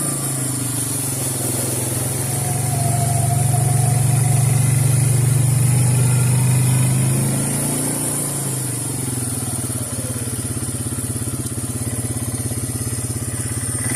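Suzuki Eiger 400 ATV's single-cylinder four-stroke engine running while riding, pulling harder and louder from about two to seven seconds in, then easing back to a steadier drone.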